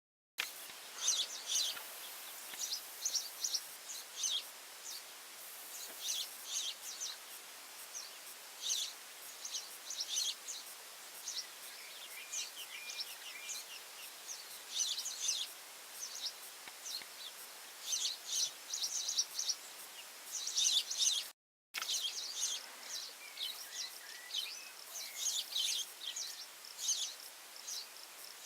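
Wild birds calling: repeated bursts of short, high chirps over a faint steady hiss, with a few lower calls in the middle and a brief dropout about three-quarters of the way through.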